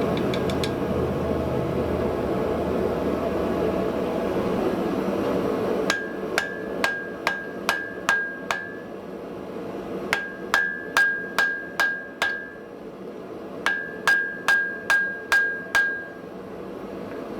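A gas forge runs with a steady roar for about six seconds. Then a hammer strikes hot steel on the anvil in three runs of six or seven blows, about two a second, each blow leaving a ringing tone. The blows work a wrought-iron and spring-steel billet below welding heat to close a crack in it.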